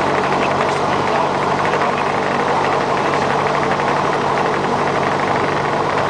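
Light aircraft's piston engine and propeller running steadily at low power, an even engine drone with no change in pitch.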